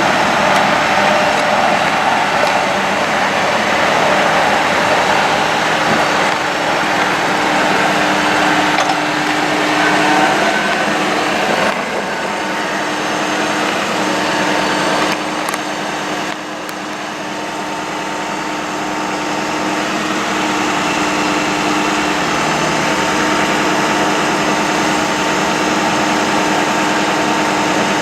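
Ford F-550 bucket truck's engine running steadily with the PTO engaged to drive the boom's hydraulics, a continuous mechanical hum with a steady tone over it. The level dips slightly about twelve seconds in and again a few seconds later, then climbs back.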